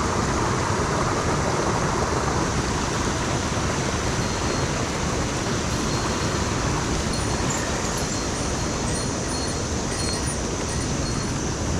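Mountain headwater stream rushing, a steady, even noise of flowing water.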